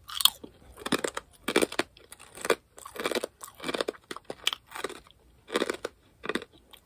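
A person chewing a hard garlic rye chip with steady crunches, about ten in all, roughly one and a half a second.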